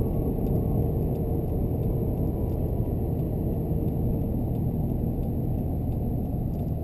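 Compound-turbocharged 5.9 L Cummins inline-six diesel pickup running steadily in fifth gear under acceleration, a low rumble with road noise.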